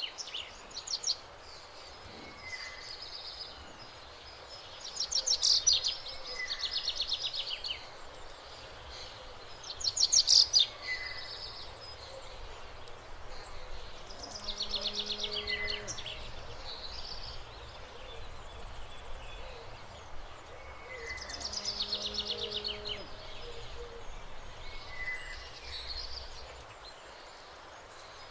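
A songbird singing short, rapid trilled phrases, repeated every few seconds over steady countryside background noise.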